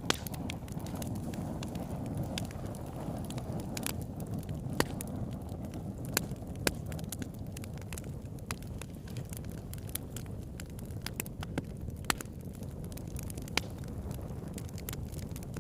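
Campfire burning with sharp, irregular crackles and pops of burning wood over a steady low rush of flame, with some wind on the microphone.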